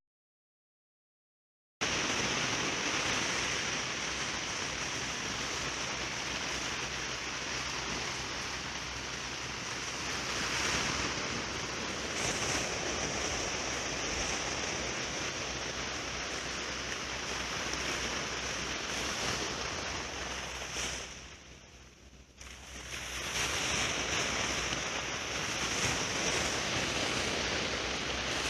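Sea surf washing on a beach, a steady rushing noise with some wind on the microphone. It starts after about two seconds of dead silence and fades briefly about three-quarters of the way through.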